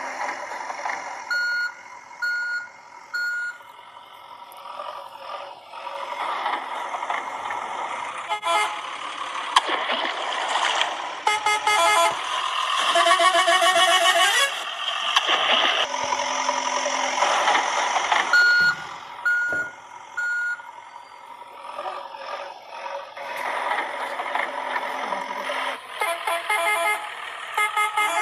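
Electronic sound effects from toy vehicles: horns tooting over and over, with sets of four short, evenly spaced beeps near the start and again about two-thirds in, and a run of beeps near the end.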